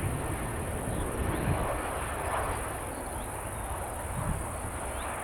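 Crickets chirring steadily at a high pitch in the grass, over a low rumble.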